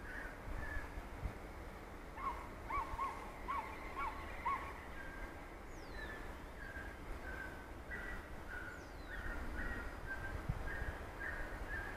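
Small birds calling: a quick run of five short hooked notes about two seconds in, then a string of short repeated chirps, over a low wind rumble.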